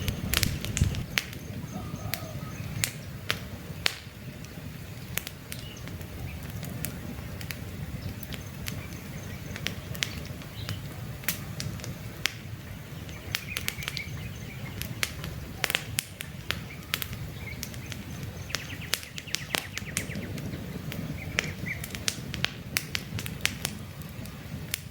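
Campfire burning with frequent sharp crackles and pops from the logs over a steady low rumble of flames.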